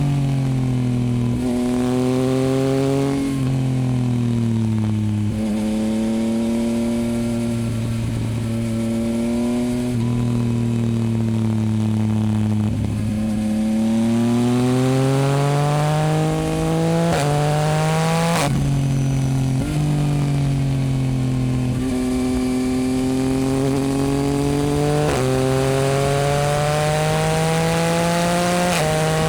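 2024 Yamaha MT-09's 890 cc inline-three engine through a Dominator HP8 aftermarket exhaust, ridden through the gears. The pitch climbs under acceleration and drops sharply at each upshift, several times over, and in between it falls away slowly as the bike slows.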